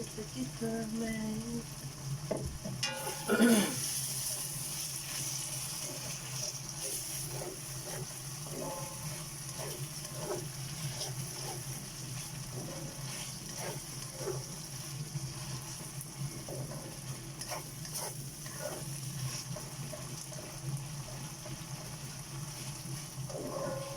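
Chopped tomatoes frying in oil in a pan, a steady sizzle with scattered clicks of a ladle stirring and scraping. A loud clatter about three and a half seconds in.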